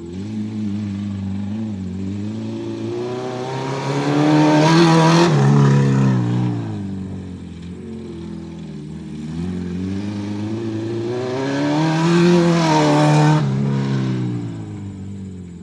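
Acura RSX's four-cylinder engine pulling hard twice, its pitch climbing to a loud peak and then falling back each time as the car laps a dirt track.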